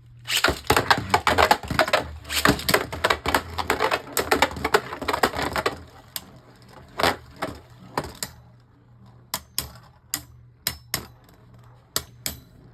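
Beyblade Burst spinning tops clashing in a plastic stadium: dense rapid clicking collisions for about six seconds, then only scattered single clicks.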